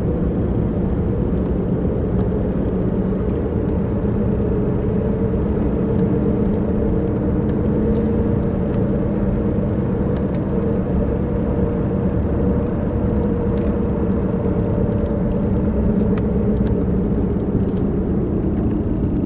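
Steady engine and road drone of a car being driven, heard from inside the cabin, with a few faint ticks.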